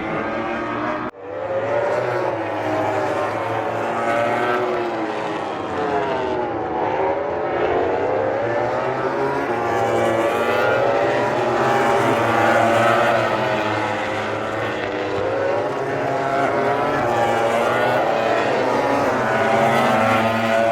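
MotoGP race motorcycle engines at racing speed, several overlapping engine notes rising and falling as the bikes accelerate, shift and brake. A brief sudden drop about a second in.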